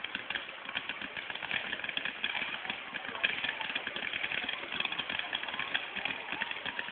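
Fireworks crackling: a dense, steady stream of rapid small pops, with one sharper pop about three seconds in.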